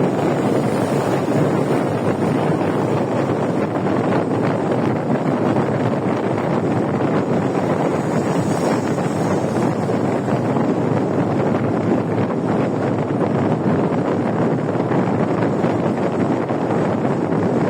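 Steady wind noise buffeting the microphone of a moving motorcycle, a dense rushing that drowns out any engine note.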